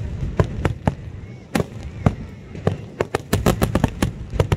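Fireworks display: aerial shells bursting in an irregular run of sharp bangs, coming thickest about three and a half seconds in.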